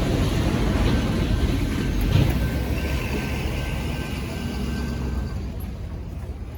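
Freight train of autorack cars rolling past, a steady rumble and rattle that slowly fades toward the end. A thin, steady high tone sounds for a few seconds in the middle.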